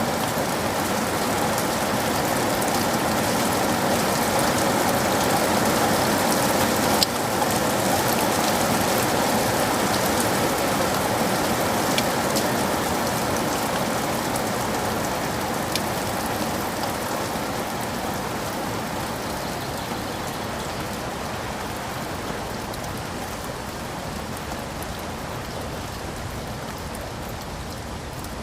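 Steady heavy rain falling on a surface, a dense even patter with occasional sharper drop hits, one standing out about seven seconds in. It slowly grows quieter over the last third.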